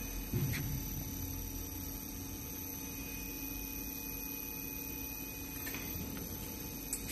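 Steady electrical hum of running machinery, with a brief low thump about half a second in and a couple of faint clicks near the end.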